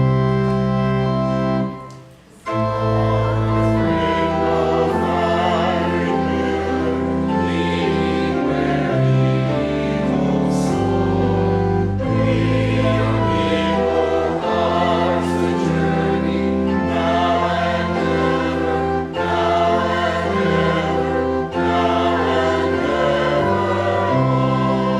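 Church music: organ with choir singing sustained chords. It breaks off briefly about two seconds in, then carries on.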